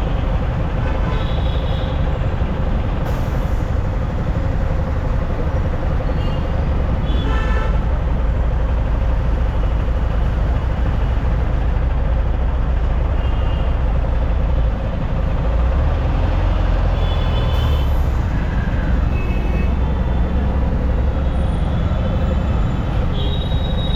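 Yamaha R15 motorcycle riding through traffic: steady engine and wind rumble, with other vehicles' horns sounding briefly several times.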